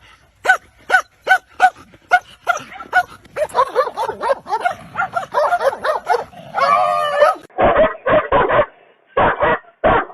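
Dog barking: a quick series of short, high yips, about three a second, followed by a denser stretch of barking and whimpering.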